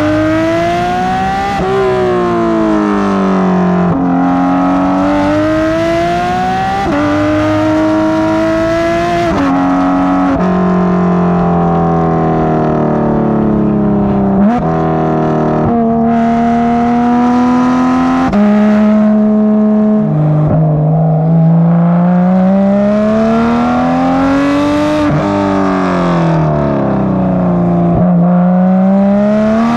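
Porsche 991.2 GT3 RS naturally aspirated 4.0-litre flat-six, breathing through straight street headers and a catalyst-delete crack pipe, driven hard. The engine note climbs in pitch under throttle and drops sharply at about a dozen gear changes or lifts, with some long falls in pitch as the car slows.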